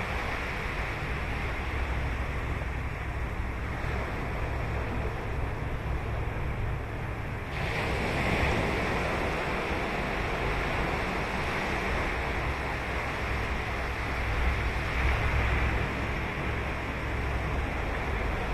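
Ocean waves breaking and washing on a sandy beach, a steady surf that swells suddenly about halfway through as a larger wave breaks, with a low rumble of wind on the microphone.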